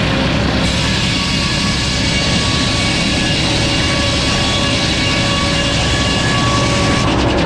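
Sawmill saw cutting through a hardwood log: a loud, steady run of machinery noise with a high whine from the blade. The high hiss drops away near the end.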